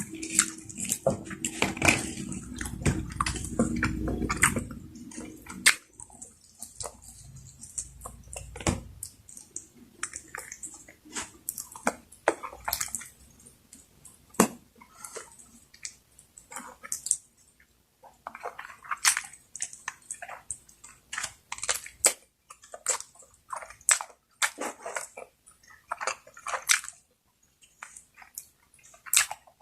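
Close-miked eating sounds: a louder, wetter stretch of mouth sounds for the first five seconds or so, then chewing with irregular wet smacks and clicks.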